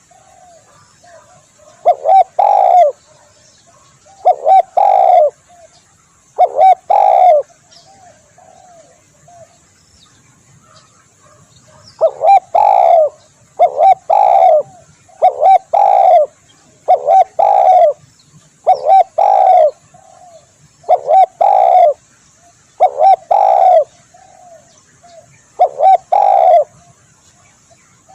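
Spotted dove (tekukur) cooing: loud phrases of several low coo notes, repeated about every two seconds, with a break of a few seconds near the middle.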